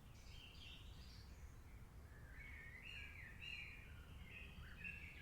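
Faint birdsong in a rainforest soundscape: high chirping calls, then a wavering run of notes from about two seconds in, over a low steady rumble.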